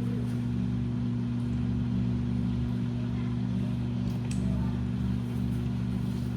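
Washing machine running with a steady low hum and rumble, with a few faint clicks over it.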